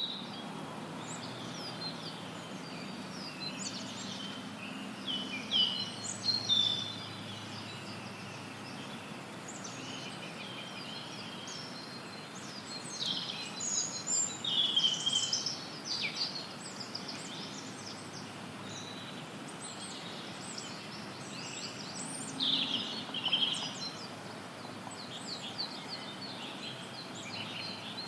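Songbirds chirping and trilling over a steady hiss of added noise, the bird calls coming in clusters, busiest at a few moments.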